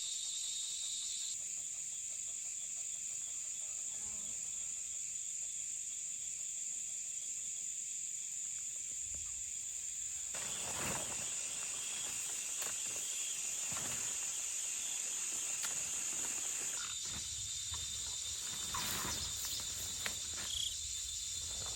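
Insects shrilling in a steady high-pitched chorus. From about halfway, scattered rustles and light knocks join in.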